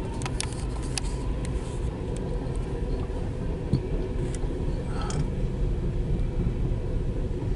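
Empty coal train's hopper cars rolling past with a steady low rumble, heard from inside a car, with a few short sharp ticks in the first second or two and again about five seconds in.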